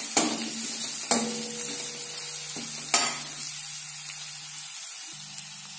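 Crushed garlic, ginger and spices sizzling in hot coconut oil in an aluminium kadai, with a steel spoon stirring them and knocking against the pan three times.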